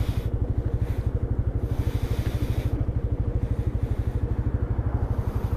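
Suzuki 125 cc motorcycle's single-cylinder engine idling steadily while stopped, its exhaust pulsing evenly at about eight or nine beats a second with no revving.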